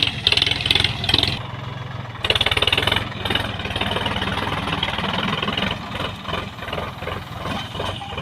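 Diesel engine of a Sonalika 50 hp 4WD tractor running, with louder surges in the first three seconds that then settle into a steady run.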